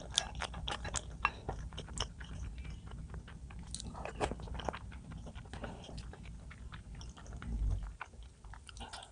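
A person chewing food close to the microphone, with many sharp crunches and wet mouth clicks at an uneven pace. There is a low thump about seven and a half seconds in.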